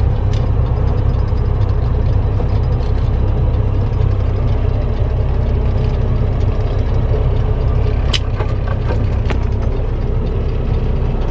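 Semi-truck cab interior while driving: a steady low drone of the diesel engine and road noise, with a few scattered clicks and rattles.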